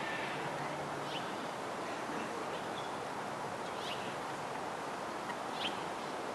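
Steady background hiss with a few faint, short bird chirps now and then.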